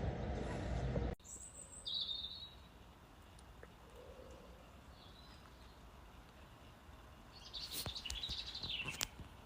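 A loud steady noise cuts off abruptly about a second in. Then a bird sings against a quiet background: a short falling call, a faint call, and a longer warbling phrase near the end.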